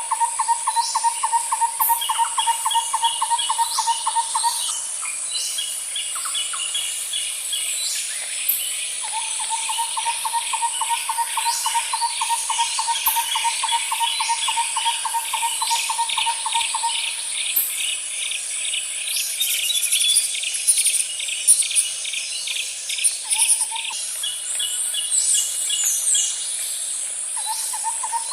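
Outdoor chorus of birds and insects: a steady high insect drone under repeated short chirps. A lower pulsing trill runs for several seconds at a time, twice at length and twice briefly.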